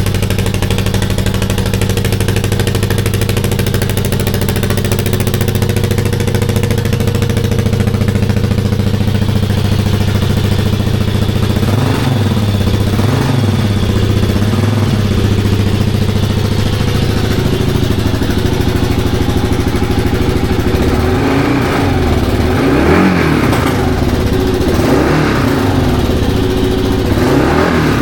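2022 Kawasaki KLR 650's single-cylinder engine idling through a newly fitted aftermarket exhaust, then blipped: three short revs about halfway through and four higher revs near the end.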